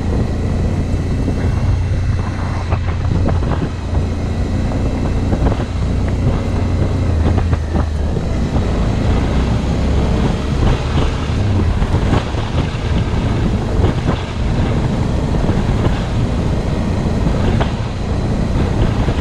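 Suzuki V-Strom's V-twin engine running steadily under a dirt-road ride, with frequent rattles and knocks from the bike jolting over bumps. The low engine drone eases off about twelve seconds in.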